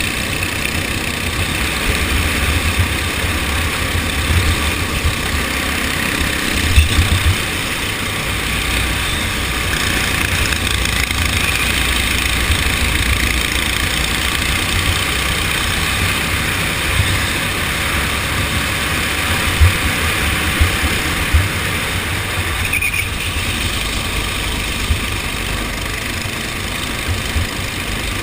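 Go-kart engine running steadily during a race, over a heavy low rumble, with a few short sharp thumps along the way.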